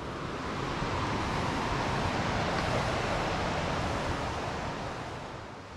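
Waterfall rushing: a steady roar of falling water that swells a little and then eases near the end.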